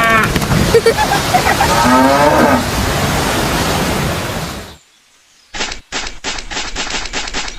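Cattle mooing, drawn-out calls over a steady rushing noise. The sound cuts off abruptly about five seconds in, and after a short silence a run of short, choppy noisy bursts follows.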